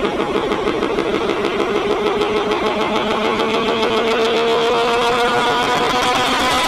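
Shelby Mustang engine running with a lumpy, pulsing idle; about halfway through the revs rise a little and then hold steady.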